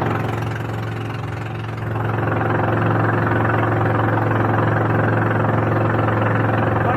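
Boat engine running steadily with an even drone, dipping in loudness for about a second early on and then back to full level.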